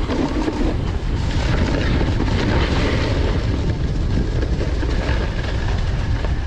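Wind rushing over the microphone as a snowboarder rides downhill, together with the board's edge scraping across snow: a loud, steady rumble with no breaks.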